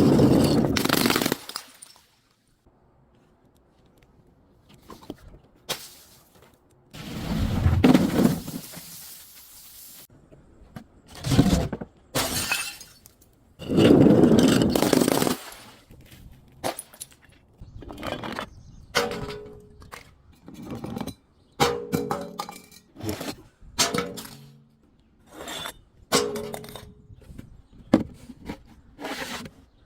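Glass bottles shattering and being crushed: a few loud crashes, then a rapid run of short crunches and clinks of breaking glass from about halfway on.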